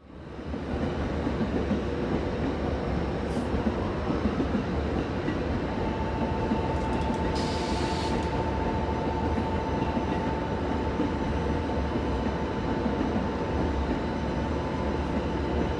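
Container freight train departing the station, a steady rolling rumble of locomotive and wagons on the rails. A steady high tone joins about six seconds in and holds.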